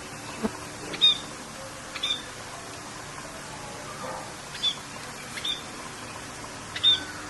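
Short bird chirps, about five of them spaced through the clip, over a steady hiss of rain.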